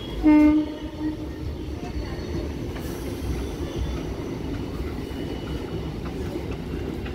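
Suburban electric local train running along the track, a steady low rumble of wheels on rails heard from an open carriage window, with one short, loud horn blast a fraction of a second in.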